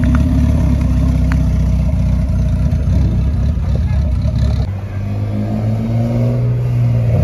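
Loud low engine note of a modified Honda Civic hatchback rolling slowly past. About four and a half seconds in, it gives way abruptly to a different car's steady, slightly higher-pitched engine drone, a BMW 3 Series sedan moving slowly.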